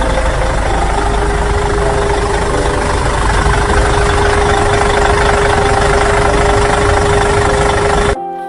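A vehicle engine running loudly and steadily, with a held whining tone from about a second in; it cuts off abruptly near the end.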